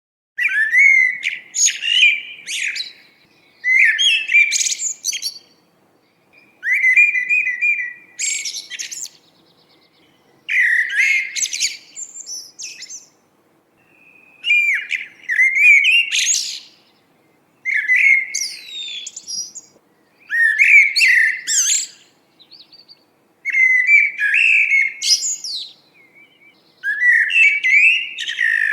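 A small songbird singing, about nine varied warbling phrases of a couple of seconds each, separated by short pauses, with one rattling trill among them.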